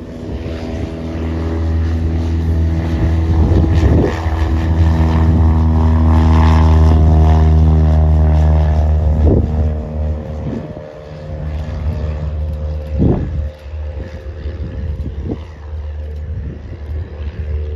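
Piston-engine propeller aircraft running at high power close by, a deep, steady engine-and-propeller drone that swells, holds loudest through the middle, then falls back to a lower level as it moves away. A few short knocks are heard along the way.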